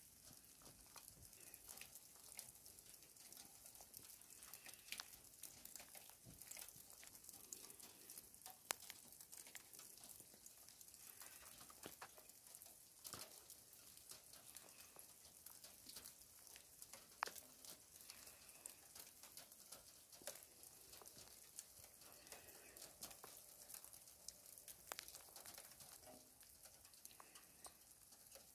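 Faint light rain falling, an even hiss scattered with many small drop ticks. Two sharper ticks stand out about a third and two thirds of the way through.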